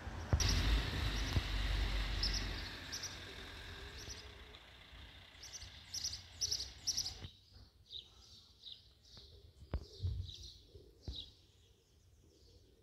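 Small birds chirping in short, repeated calls, over a rushing background noise that fades and cuts off abruptly about seven seconds in. A few sharp clicks follow; the church bells are not yet ringing.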